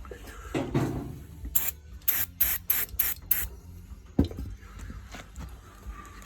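An aerosol spray can giving about five short, quick bursts in a row, rust penetrant being sprayed onto a seized carburettor throttle shaft. A single sharp knock follows a little after.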